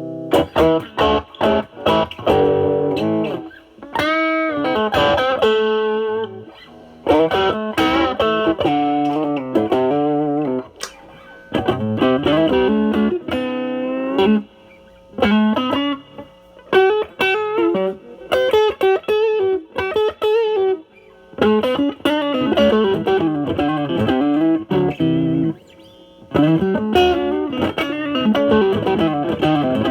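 Semi-hollow electric guitar played through a Nobels ODR-1 overdrive pedal (bass-cut mod) with the drive at about 10 to 11, into the clean channel of a Marshall Valvestate amp. It plays blues lead lines of picked single notes with string bends, in short phrases separated by brief pauses.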